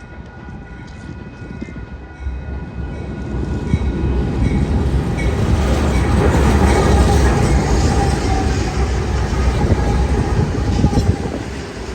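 Train passing close by: a deep diesel locomotive rumble with rolling wheel and rail noise builds over the first few seconds, stays loud through the middle, and eases slightly near the end.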